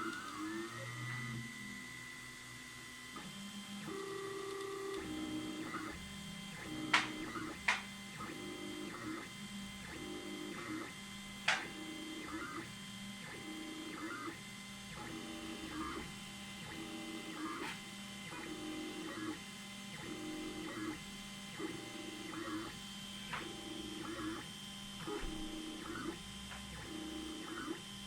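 Stepper motors of an Anet A8 3D printer converted into a pen-plotting CNC, whining in short pitched runs about once a second as the axes move through a drawing. There are a few sharp clicks in between.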